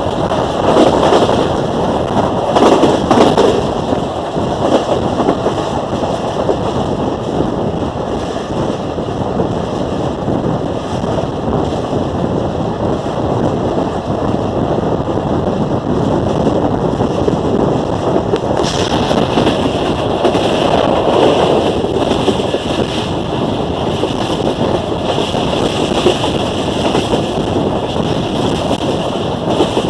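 Passenger train running at speed: a steady rumble of wheels on track mixed with wind buffeting the microphone, swelling a little in places.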